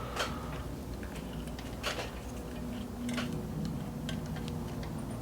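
A few sharp clicks and light taps, over a steady low hum, as motorcycle wiring is handled and pulled through the frame.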